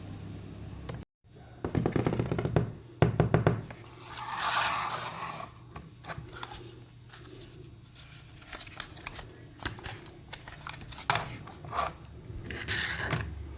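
Hands handling small objects and packaging: bursts of rapid clicking and scraping, with two spells of rustling, over a low steady hum.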